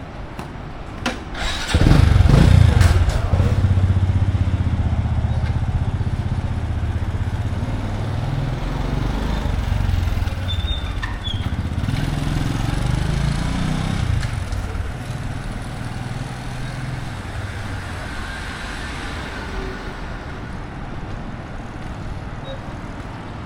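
A motor vehicle engine running close by. It comes in suddenly and loudly about two seconds in, its pitch shifting for several seconds, then dies down gradually toward the end.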